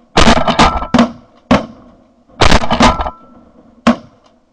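Shotgun volley from several hunters shooting at geese: about ten blasts in quick succession, bunched in the first second, again around two and a half to three seconds in, and a last one near the end.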